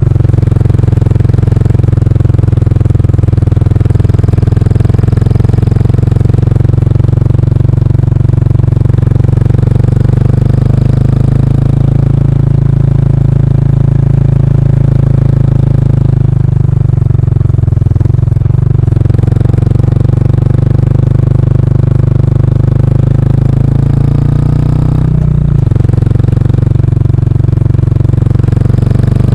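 Kawasaki Estrella's single-cylinder engine running while the motorcycle is ridden, heard through the stock muffler with its baffle removed. The engine note holds fairly steady, with changes in revs about two-thirds of the way in and again near the end.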